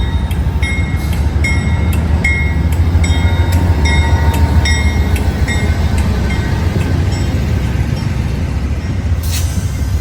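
Amtrak California Zephyr passenger train rolling out slowly behind a BNSF diesel helper: a steady deep rumble, with short high-pitched squeals recurring about twice a second and one brief hiss near the end.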